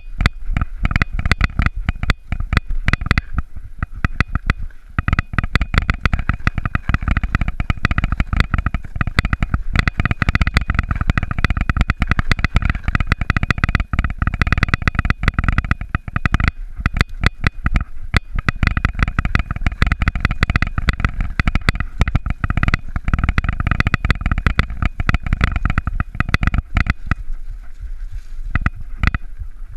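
Mountain bike riding a rough dirt trail: a constant clatter of rattles and knocks from the bumps over a low rumble of tyres and wind.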